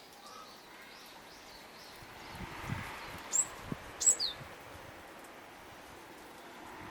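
Small garden birds giving a few short, very high, falling chirps a little past the middle, over a faint outdoor background, with a few soft low thumps just before them.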